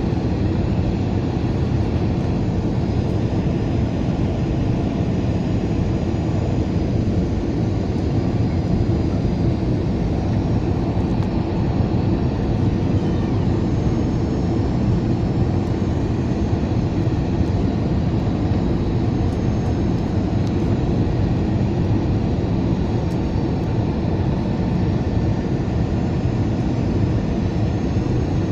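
Steady cabin noise of an Airbus A320 on approach: the low rumble of the engines and the air rushing past the fuselage, heard from inside the cabin.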